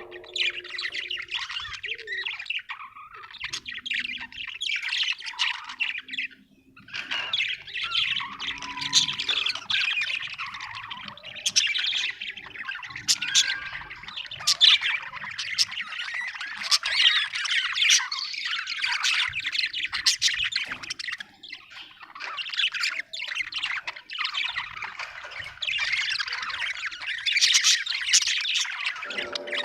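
A group of small parrots chattering and squawking together, with many overlapping calls and a brief lull about six seconds in.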